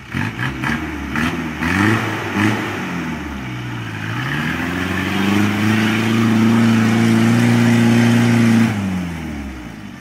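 Jeep CJ7 engine revving hard while the Jeep climbs a steep muddy slope and is still struggling to make it up. A few short bursts of throttle in the first three seconds, then the revs rise and are held high from about five to nine seconds before dropping away near the end.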